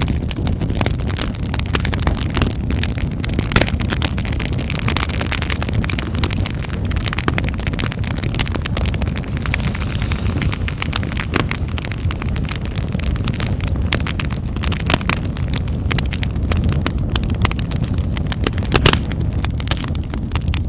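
Wood fire in a fireplace crackling, with frequent sharp pops over a steady low rumble of the flames; one louder pop near the end.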